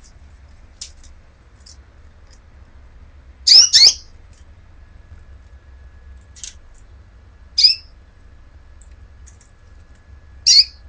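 A bird calling: a loud double call about three and a half seconds in, then single loud, short calls twice more, the last near the end, with faint short chirps in between.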